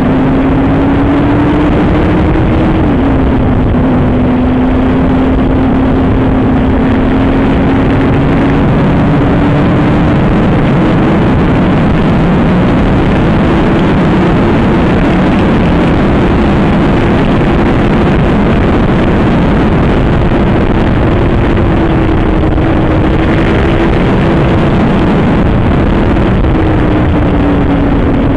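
Heavy wind rush over a helmet-mounted phone microphone on a superbike at speed, with the engine's note running underneath. The engine note holds fairly steady, drops once about three seconds in, and eases down again near the end.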